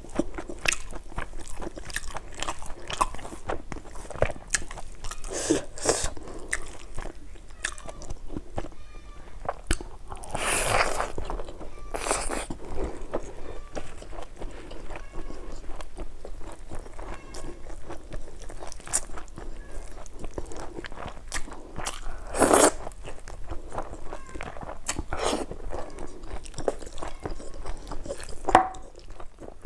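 Eating sounds of chicken leg curry and rice: steady chewing and biting with many small mouth clicks. There are louder moments about ten seconds in, about twenty-two seconds in and just before the end.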